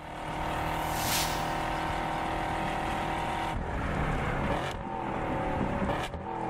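Performance car engines on a racetrack, heard in cut-together clips: a steady engine note that switches abruptly to a different one about three and a half seconds in and again near the end. A brief falling hiss comes about a second in.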